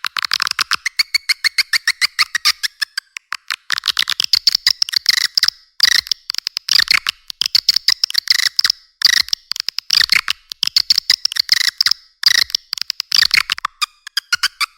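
Swiftlet lure call: rapid trains of dry clicks and high chattering twitters of edible-nest swiftlets, coming in bursts with short breaks. The recording is thin, with no low end.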